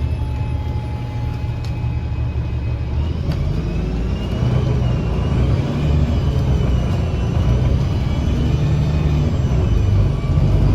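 2009 Gillig BRT 40-foot diesel bus running, heard from inside: a low steady engine and Voith transmission drone. From about four seconds in, a high, wavering whistle-like sound from the engine comes in over it.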